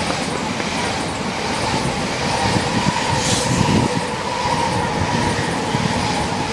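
Tokaido Shinkansen bullet train passing close by: a loud, steady rush of wheels on rail with a steady whine, as the last car goes by near the end.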